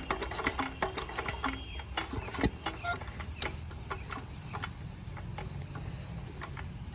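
Lister diesel engine running with a regular, slow beat of short knocks, the beat easing off slightly toward the end.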